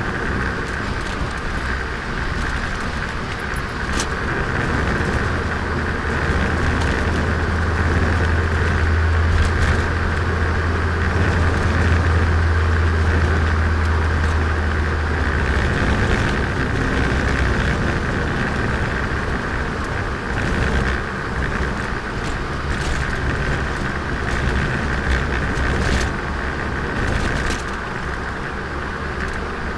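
Turbocharged Nissan Micra on the move with a freshly rebuilt engine being run in: steady engine drone with road and tyre noise. The deep drone swells from about four seconds in and eases off again after about fifteen seconds, with a few sharp clicks or knocks along the way.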